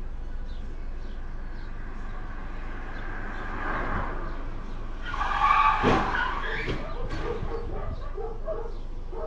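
Steady car road noise, then tyres skidding about five seconds in with knocks of a collision just after, followed by a run of short repeated sounds.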